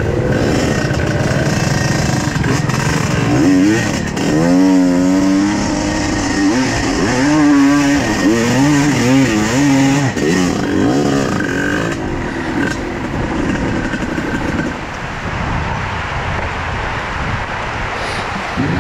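Trail motorcycle engine running, revved up and down repeatedly for several seconds in the middle, then settling to a steadier, slightly quieter run.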